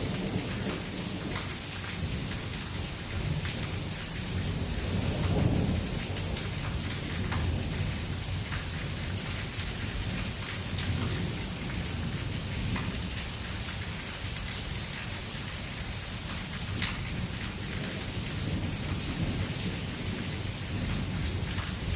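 Heavy rain pouring steadily, with low thunder rumbling underneath that swells about five seconds in. A few sharp taps of drops stand out over the rain.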